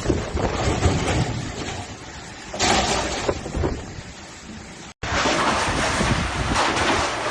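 Thunderstorm: heavy rain with wind buffeting the microphone and a low rumble. It swells about two and a half seconds in, then breaks off abruptly near five seconds and resumes as louder, denser rain with many small pattering hits.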